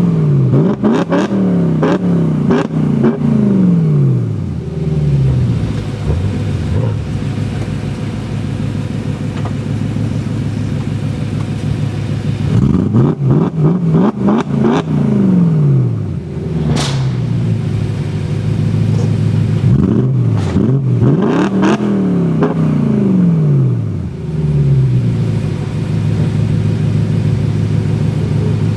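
BMW M3 E90's 4.0-litre V8 through a handmade exhaust, idling steadily and revved three times, each rev climbing quickly and falling back to idle, with sharp cracks around the revs.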